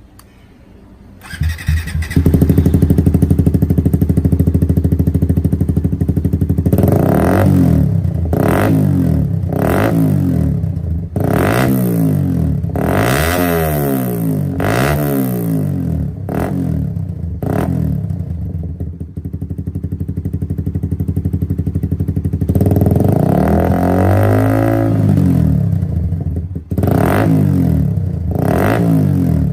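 Suzuki GSX-R150's single-cylinder four-stroke engine through an aftermarket exhaust: after a quiet second or two it comes in idling, then is revved in a string of quick throttle blips that rise and fall, settles back to idle, and is revved again with one longer rev and a few more blips near the end.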